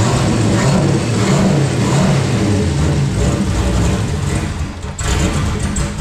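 Turbocharged LS V8 engine of a NASCAR stock car running and being revved while still cold, with a brief drop in level about five seconds in.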